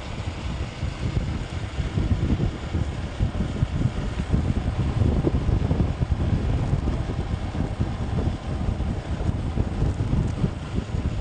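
Wind buffeting the microphone of a moving motorbike: a loud, gusty rumble that rises and falls unevenly, with the ride's vehicle noise underneath.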